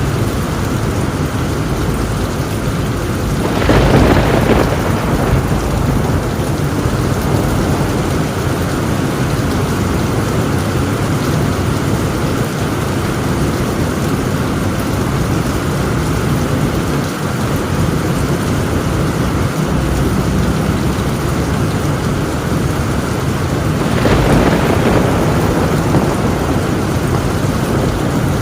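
Heavy rain drumming steadily on a tin roof, with a thunderclap rolling in about four seconds in and another near the end.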